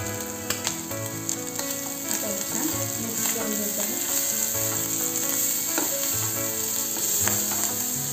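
Sweet corn kernels frying in oil in a steel pan with a steady sizzle, stirred with a silicone spatula that clicks and scrapes against the pan a few times.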